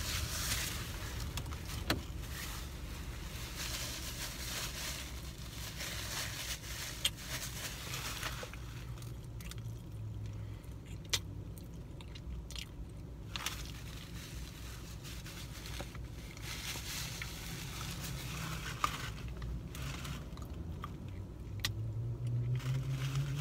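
A person chewing a bite of breakfast sandwich, with wet mouth noises and a few sharp clicks, over a steady low hum inside a car.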